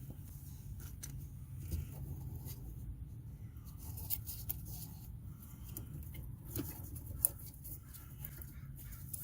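Light clicks and rustling from hands handling wiring connectors, over a low steady rumble, with one sharper click about seven seconds in.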